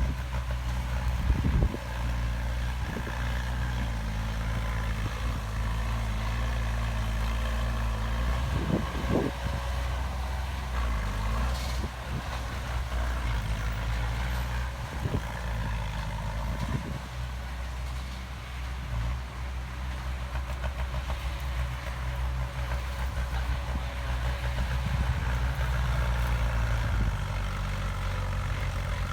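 Heavy construction machine's engine running steadily at a low, even pitch, with a couple of short knocks.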